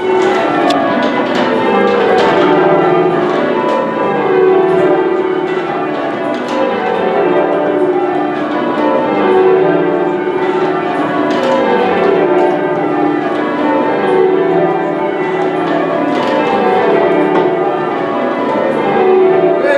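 The ten church bells of Manchester Cathedral's ring, full-circle change ringing. The strikes come in steady, repeated rows, each falling in pitch from the lightest bell to the heaviest, and the tones ring on over one another.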